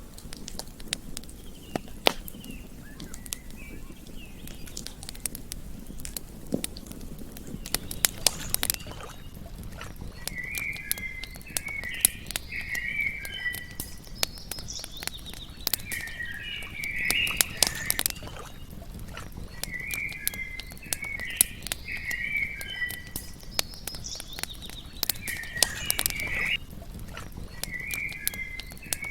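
Campfire crackling with frequent sharp pops over a low, steady burn. From about ten seconds in, a bird calls in short chattering phrases, repeated every few seconds.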